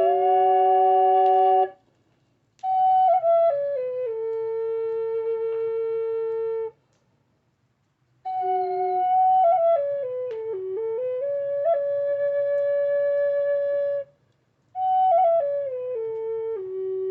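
Native American-style flute playing a slow melody of long held notes and stepwise descending runs. It breaks off between phrases about two, seven and fourteen seconds in.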